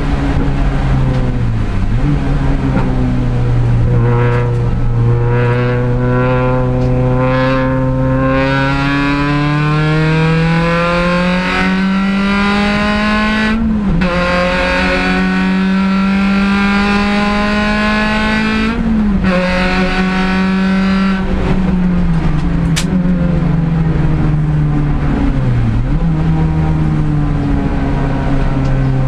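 R53 Mini Challenge race car's supercharged four-cylinder engine at racing speed, its pitch climbing steadily and dropping sharply with each of about four gear changes.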